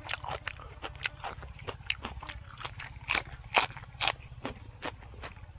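Close-miked chewing of crisp raw morning glory: a rapid run of crunches and wet mouth clicks, several a second, with a few louder crunches about three to four seconds in. A steady low hum runs underneath.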